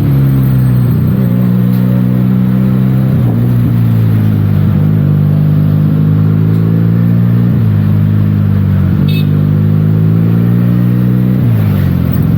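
Benelli TNT 300 parallel-twin engine on its stock exhaust, running while the bike is ridden. The engine note dips and climbs back again about half a dozen times, and climbs steeply near the end.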